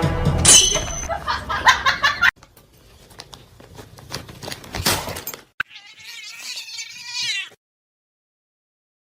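A cat meowing, with one long drawn-out call about two-thirds of the way through that cuts off abruptly, after several seconds of scattered knocks and clatter.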